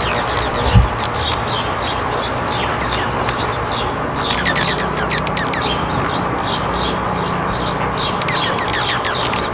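Many small birds chirping at once: a dense run of quick, short, downward-sliding chirps over a steady hiss. A single low thump comes about a second in.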